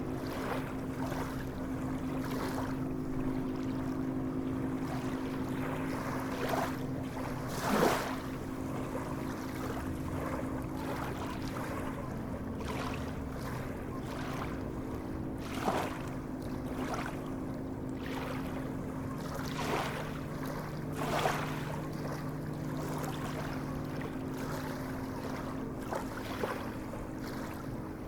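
Sea water washing and sloshing, with a few short louder splashes now and then, over a steady low hum.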